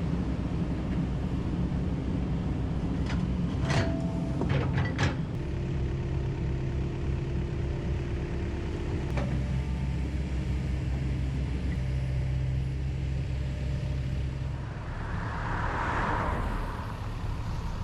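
Hydraulic excavator's diesel engine running steadily under working load. A few sharp knocks come about four seconds in, and a rushing noise lasts about two seconds near the end.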